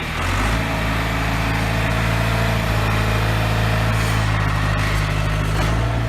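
A large vehicle engine running steadily under throttle, its note stepping up and growing louder about a third of a second in, then holding.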